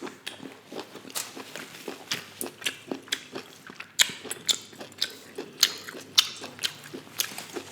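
Close-miked chewing and biting of food, a mukbang eating sound. It is a steady run of irregular wet clicks and small crunches, a few a second.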